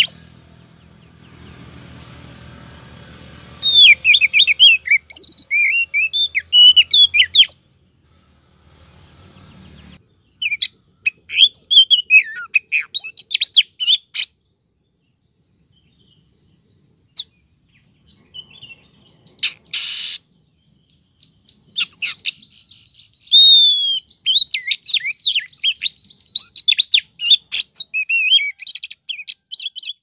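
Oriental magpie-robin (kacer) singing in phrases of rapid, varied whistles and trills, broken by a couple of pauses. A brief burst of noise comes about twenty seconds in.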